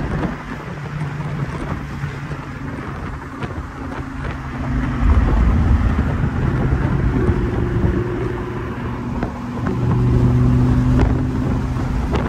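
Car engine running while the car drives, with rushing wind and road noise; the engine's note shifts now and then and grows louder from about five seconds in.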